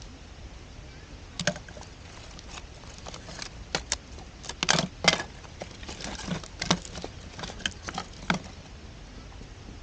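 Campfire crackling, with irregular sharp pops scattered through, the loudest about five seconds in.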